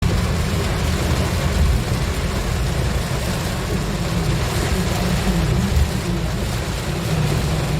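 Car driving in the rain: a steady low rumble of engine and tyres with an even hiss of rain and road spray over it.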